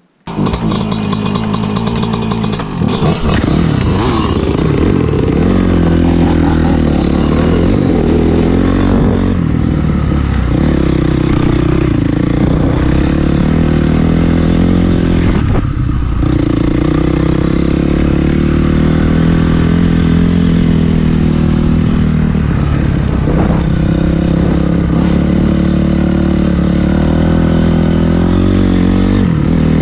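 Dirt bike engine running hard under a rider, revving up and down, with brief drops in pitch about every five to six seconds as the throttle comes off or gears are shifted. It starts abruptly, already loud.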